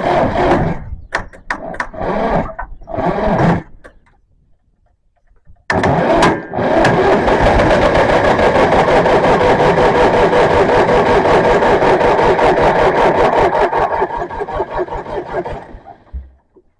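International 2400 tractor engine being cranked on starting fluid: it fires in a few uneven sputtering bursts and stops, then after a short pause cranks and fires in a steady fast rhythm for about ten seconds before dying away, catching on the fluid but not keeping running.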